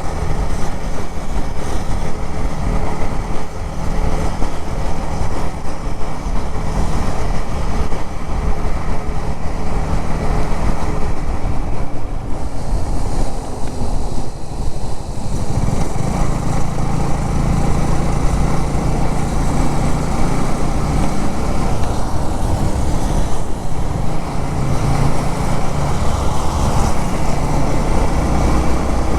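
Motorcycle running steadily on the road, with wind and road noise. The engine's low note gets stronger about halfway through.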